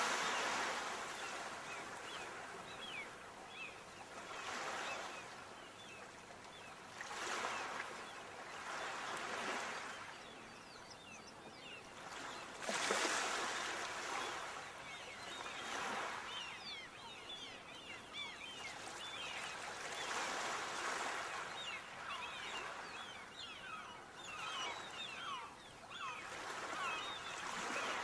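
Sea waves breaking and washing ashore, swelling and fading every few seconds, the biggest one about 13 seconds in. Short high chirps are scattered between the swells.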